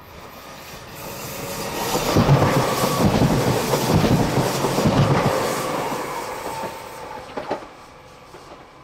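Train wheels rolling and clattering on the rails of the Semmering mountain railway. The sound swells over the first two seconds, stays loud for a few seconds, then fades away, with a thin steady wheel squeal through the loudest part.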